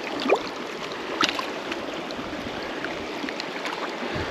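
Lower Owens River running: a steady rush of flowing water, with a short rising chirp near the start and a few faint clicks.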